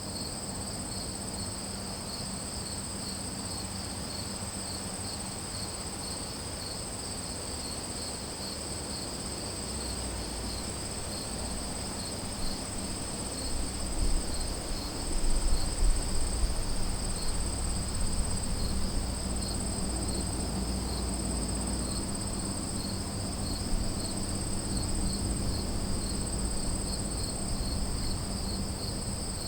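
A chorus of crickets and other insects: a steady high trill over a faster pulsing chirp a little lower. A low rumble swells up about halfway through and then eases off.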